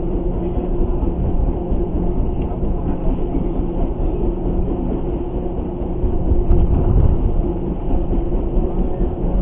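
Boat engine running steadily, a heavy low rumble with a constant hum.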